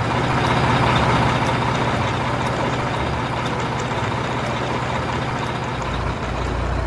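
Steady running of a large truck engine, a sound effect laid over toy trucks being towed along, with a deeper low rumble coming in near the end.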